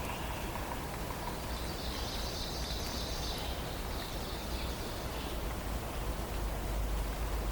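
Forest ambience: a steady rustling hiss with a low rumble underneath, and a faint high-pitched trill from roughly one and a half to four and a half seconds in.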